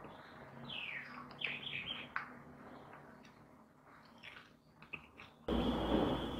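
Bird chirping: a run of quick falling calls in the first two seconds, then a few fainter chirps. About five and a half seconds in, a sudden, louder rushing noise cuts in.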